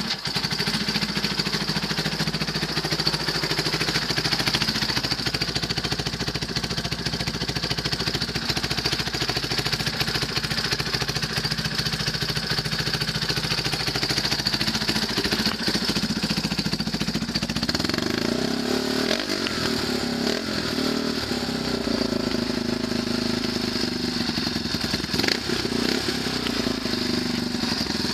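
Yamaha YFM350 Warrior ATV's single-cylinder four-stroke engine, built up with a big race cam, idling steadily, then revved up and down a few times about 18 seconds in before settling back to idle.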